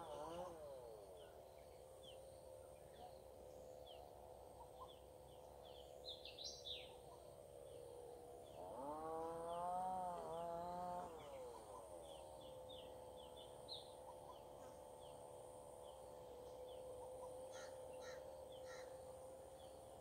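Faint birdsong: small birds chirping in short high notes, busiest about a third of the way in and near the end. Under it runs a steady droning tone of unclear source, which swoops up and down in pitch at the start and again about halfway through.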